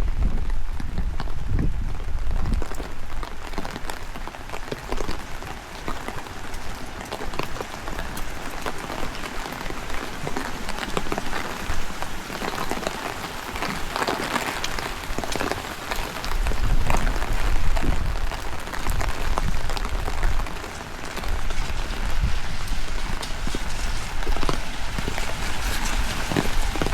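Steady rain falling, with many small drop impacts, and gusts of strong wind rumbling on the microphone a few times, most strongly a little past the middle.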